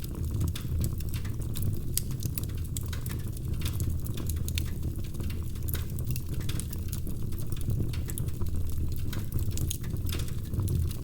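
Wood fire crackling steadily: irregular sharp pops and snaps over a constant low rumble.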